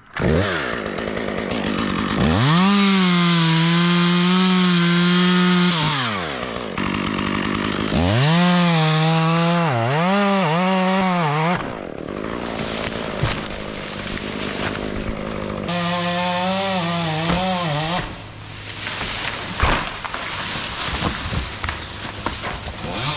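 Chainsaw revved to full throttle in three spells, about four seconds, three seconds and two seconds long, its pitch dipping and rising as it cuts through the trunk at the fork. Between and after the cuts there is a rougher, lower noise, with one sharp knock near the end.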